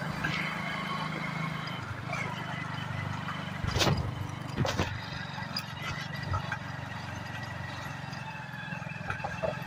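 Hero Glamour 125cc motorcycle's single-cylinder engine running steadily on the move, picked up by a phone inside the rider's shirt pocket. A couple of sharp knocks come about four and five seconds in.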